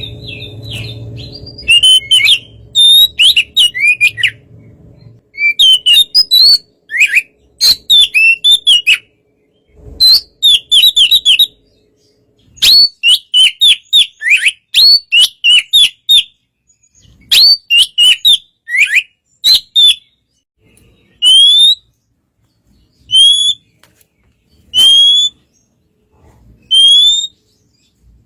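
Oriental magpie-robin (kacer) singing: clusters of rapid whistled notes, trills and falling slurs, then, about three quarters of the way through, single rising whistles repeated every couple of seconds.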